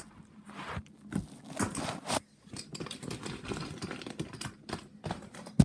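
Toy trains being handled and moved about: irregular clicks, knocks and scrapes, with one sharp click near the end.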